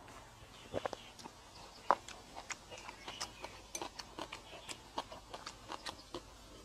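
Eating sounds: irregular soft clicks and smacks of chewing, with one sharper click about two seconds in.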